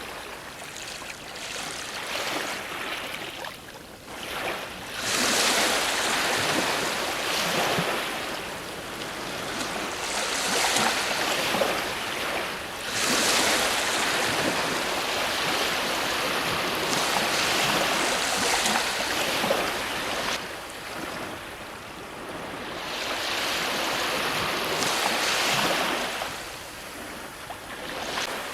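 Ocean waves breaking on a shore, the surf swelling and falling in surges a few seconds long.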